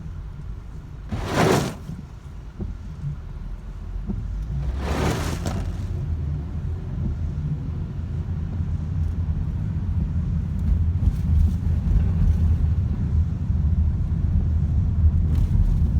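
Road traffic in flood conditions: a steady low rumble that grows louder, with two short whooshes about a second and a half and five seconds in, as vehicles pass.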